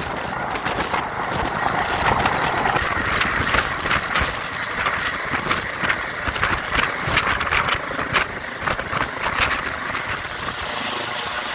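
Helicopter turbine and rotor running, a steady loud whine and rush with irregular rapid thuds throughout.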